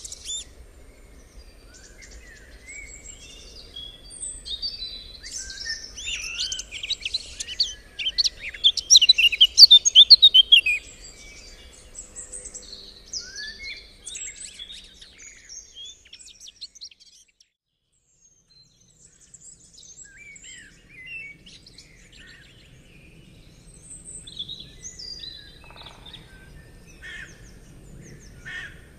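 Several songbirds singing and chirping in a busy mix of short trills and calls, loudest about a third of the way in. The birdsong breaks off for a second or two midway, then picks up again more sparsely.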